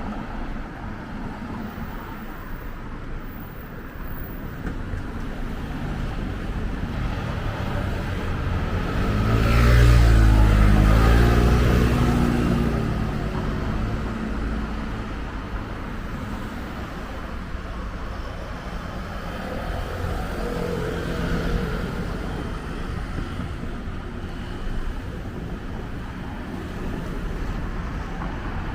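Street traffic with a steady background rumble; about ten seconds in a motor vehicle passes close by, its engine rising to the loudest point and bending in pitch as it goes past, then fading back into the traffic.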